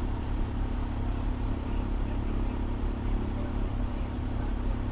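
Fire engine's diesel engine idling steadily, a constant low drone.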